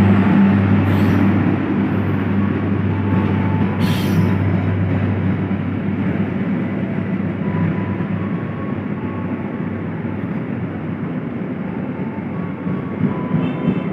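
A train running past, a steady rumble of wheels and cars with a low hum that fades out about five seconds in, the whole sound slowly growing quieter. Two brief sharp high sounds come about one and four seconds in.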